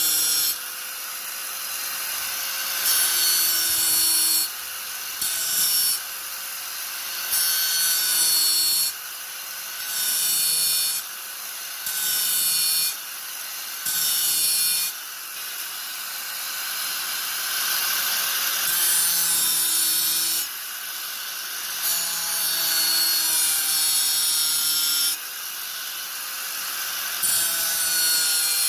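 Angle grinder running with a steady motor whine, its disc pressed into the work and eased off again over and over, a second or so at a time, so the grinding noise keeps swelling and dropping back.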